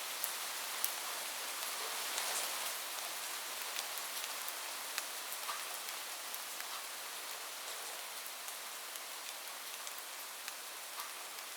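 Steady rain falling on a roof: an even hiss with scattered sharp ticks of single drops, easing off slightly in the second half. No thunder is heard.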